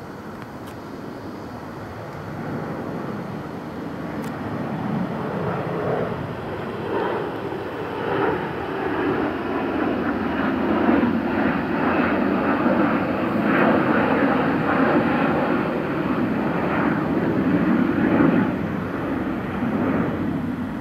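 Jet airliner taking off: its engine noise swells steadily louder through the first half and stays loud and ragged.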